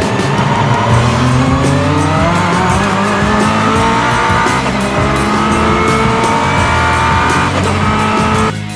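A high-performance car engine accelerating hard. Its pitch climbs with the revs, drops once about halfway through at a gear change, climbs again, then cuts off suddenly near the end.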